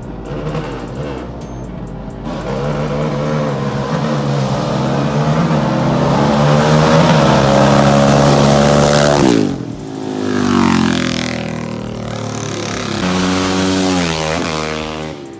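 A vehicle engine accelerating hard, its pitch climbing for several seconds, falling sharply about nine seconds in, then climbing again twice.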